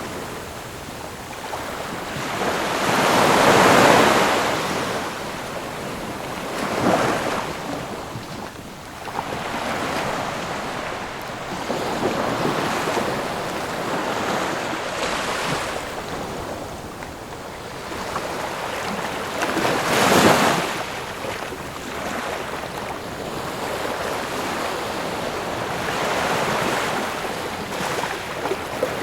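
Ocean waves breaking and washing on a shore in a steady surf, with louder swells every few seconds, the biggest about 3 s and 20 s in.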